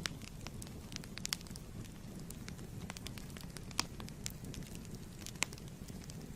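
Wood fire burning in a fireplace: a steady low rumble of flames with irregular sharp crackles and pops, a few each second.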